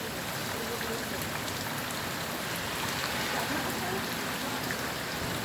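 Steady rain falling, an even hiss scattered with faint ticks of individual drops, swelling slightly about three seconds in.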